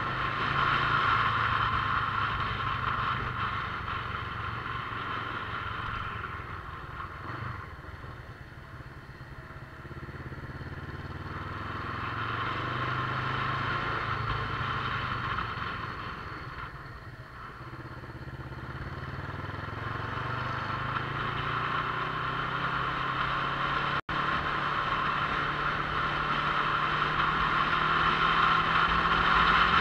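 Motorcycle engine running under way. It eases off twice, about a third of the way in and again just past halfway, then pulls back up, rising in pitch as it accelerates near the end.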